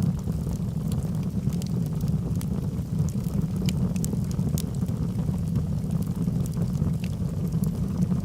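Log fire burning in a fireplace: a steady low rumble of flames with frequent small crackles and pops from the burning wood.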